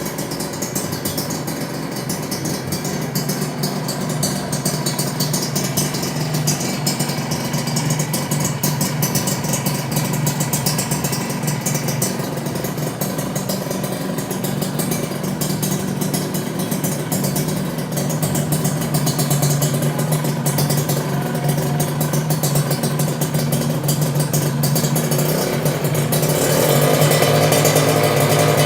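Kawasaki Ninja RR two-stroke single-cylinder engine running steadily through an aftermarket Cream Pie ZZ1 stainless steel exhaust, getting louder near the end.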